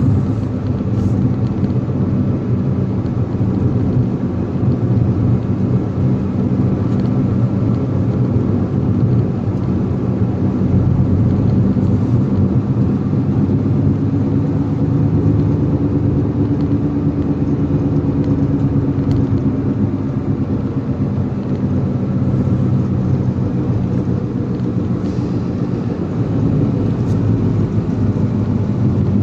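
Motor vehicle engine running steadily under way, with road noise; the engine note rises slightly and eases back near the middle.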